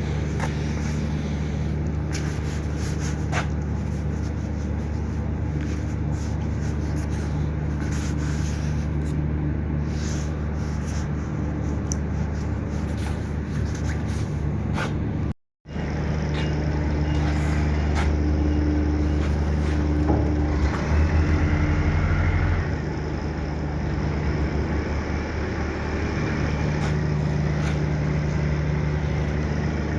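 A motor vehicle running steadily with a constant engine hum and road noise, cut by a brief dropout to silence about halfway through.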